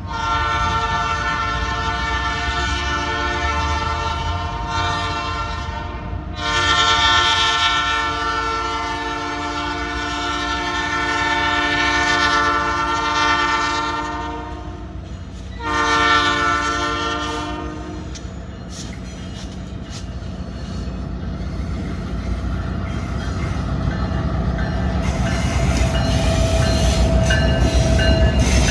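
Freight locomotive's multi-chime air horn sounds three blasts: two long, then a short one. After that the train rolls by with a low rumble and wheel clatter that grows louder toward the end.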